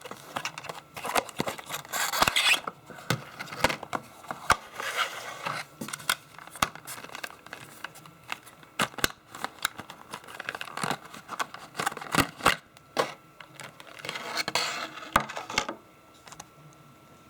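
Packaging of a small die-cast model airliner being opened by hand: cardboard box flaps and plastic packing scraping, rustling and crinkling, with many sharp clicks and taps, stopping about a second before the end.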